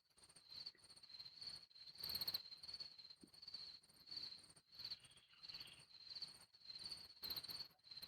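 Crickets chirping at night: a faint, steady high-pitched trill that pulses roughly twice a second.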